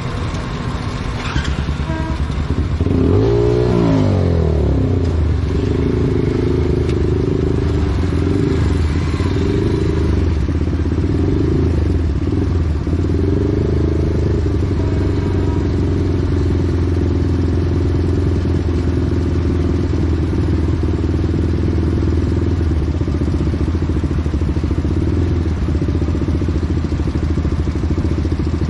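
Motorcycle engine heard from the bike itself: it revs up sharply about three seconds in, then runs steadily at cruising speed with small rises and falls in engine speed.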